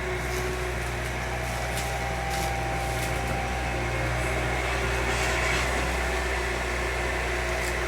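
A motor running steadily at an even idle, with a few faint ticks over it.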